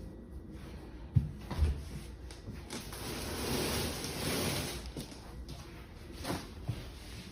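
A door being opened and footsteps going through it: two thumps, then a sliding, rushing noise lasting about two seconds, then a few lighter knocks.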